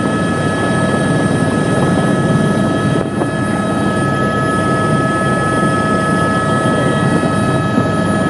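Helicopter in flight heard from inside the cabin: a steady, loud drone of engine and rotor with a constant high whine over it.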